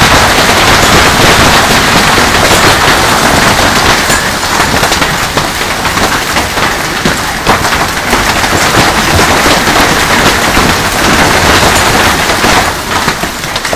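Hailstones pelting down hard: a loud, dense din of countless rapid impacts that eases a little after about four seconds and dies down near the end.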